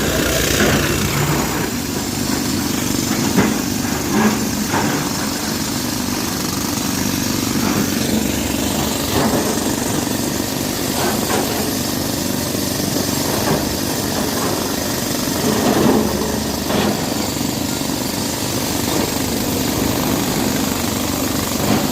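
Diesel engine of heavy earthmoving machinery running steadily at work, with a few brief louder knocks or surges along the way.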